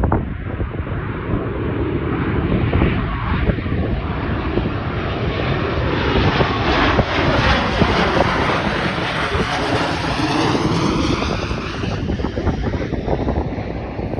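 An airliner passing overhead: a loud rushing engine noise that grows to its brightest around the middle and fades near the end, with wind buffeting the microphone throughout.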